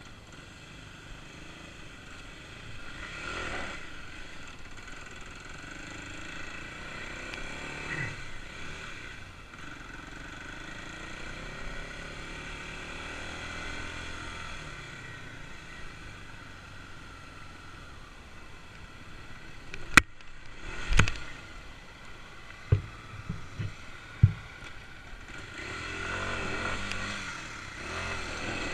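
Kawasaki KLX250's single-cylinder four-stroke engine running, the revs swelling up twice, with several sharp knocks about two-thirds of the way through.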